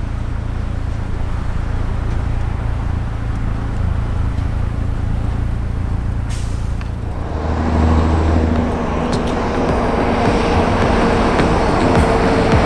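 Motor vehicle engine running with road noise, a steady low rumble that grows louder about seven seconds in, with a rushing sound and a higher engine hum.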